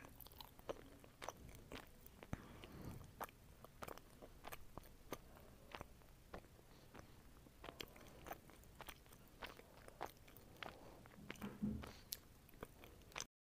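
A person chewing and biting fruit close to the microphone, with a fast run of small mouth clicks and crunches. It cuts off suddenly near the end.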